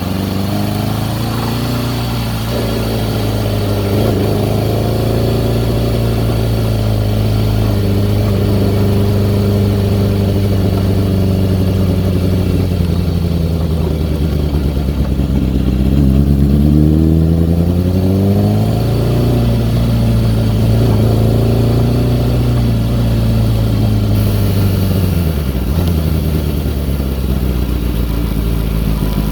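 2002 Kawasaki ZX-6R's inline-four engine running unevenly, its revs wandering up and down instead of holding a steady idle, with a rise about halfway through and dips later on. The owner takes the weird sound for a carburettor or fuel problem after the bike sat unused.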